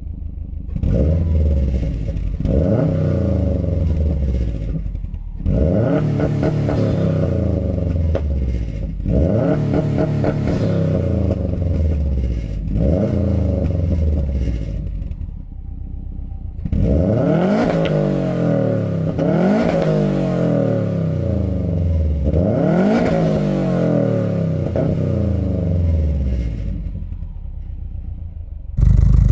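2016 Subaru WRX STI's turbocharged 2.5-litre flat-four engine revved repeatedly through an XForce Varex valved catback exhaust, its pitch rising and falling with each blip, about eight times.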